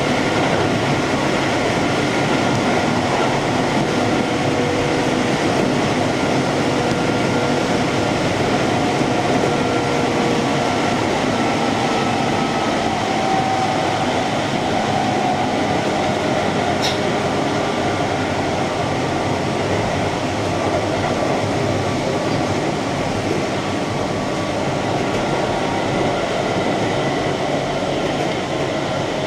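Keihan electric train running along the line: a steady rumble of wheels on rail with faint tones that drift slightly in pitch. A single sharp click comes about 17 seconds in.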